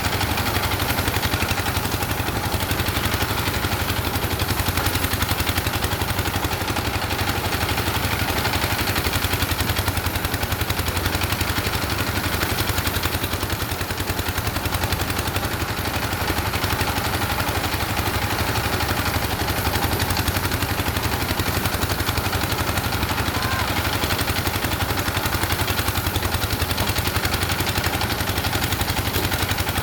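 An engine running steadily with a fast, even chugging pulse, holding the same speed throughout.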